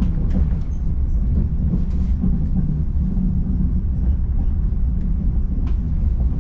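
Frecciarossa ETR 500 high-speed train heard from inside a passenger coach: a steady low rumble of the train running on the rails, with a few light clicks.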